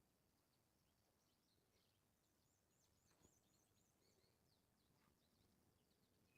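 Very faint songbirds chirping, with a fast high trill about halfway through, and a single faint click just after that.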